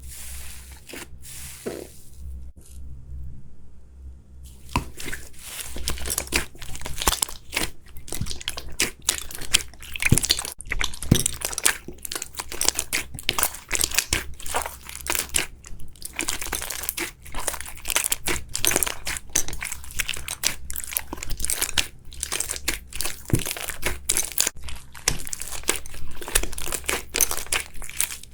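Slime being squeezed and worked by hand, giving dense, fast, irregular crackling and crunching. A few crackles open, there is a short pause, and then the crackling runs thick from about five seconds in.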